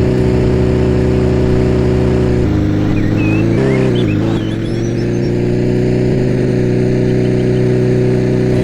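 A car engine running steadily, its pitch shifting briefly around the middle, with faint bird chirps behind it.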